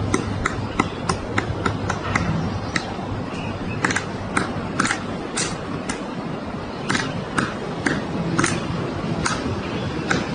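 Woodpecker pecking and chiselling into a tree trunk: separate sharp knocks at an uneven pace, roughly one or two a second, rather than a fast drumming roll. Steady background noise runs underneath.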